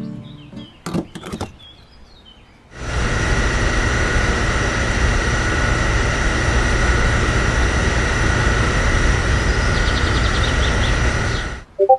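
A small electric motor running steadily, a constant whir with a fixed hum, starting about three seconds in and cutting off suddenly near the end. A few light clicks come before it starts.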